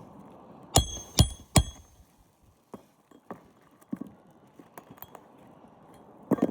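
A hammer driving roofing nails into a new asphalt shingle: three quick, ringing strikes about a second in, then light clicks and one more strike near the end.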